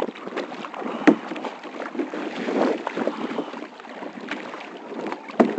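Kayak paddling: paddle blades dipping and splashing through the water with a steady wash, and a few sharp knocks, the loudest about a second in and near the end.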